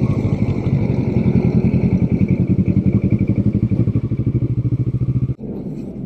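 Kawasaki motorcycle engine running steadily at low riding speed with an even pulsing exhaust beat. It cuts off suddenly about five seconds in.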